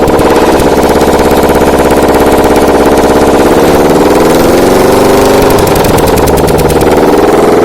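Subaru EL154 1.5-litre flat-four engine running on a test stand, its speed rising and falling about four seconds in, then climbing again near the end.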